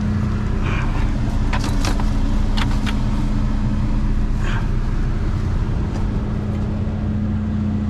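A vehicle engine idling with a steady low hum. Over it come a few short crackles of plastic trash bags being torn open, about a second and a half and again about two and a half seconds in.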